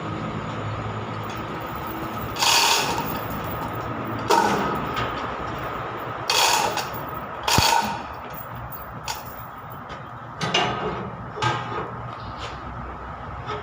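Body repair tool work in a workshop: about six short, loud, harsh bursts of noise, each under half a second, come at irregular gaps of one to two seconds over a steady hum.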